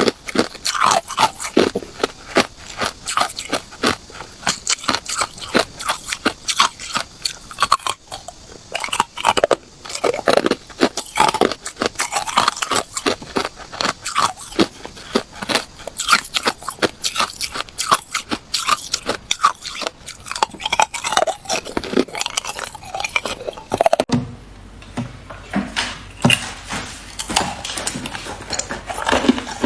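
Ice being bitten and chewed close to the microphone: a fast, dense run of crunches and cracks. About 24 seconds in, the crunching becomes sparser and duller.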